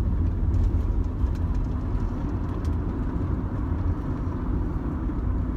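Cabin noise of a 2005 Rover 25 GSi on the move: a steady low rumble of engine and tyres on the road.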